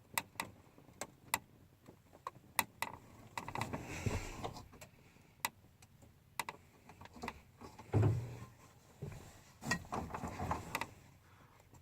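Scattered clicks and knocks with some soft rustling inside the cab of an old Ford diesel farm truck, as someone moves about and handles its controls.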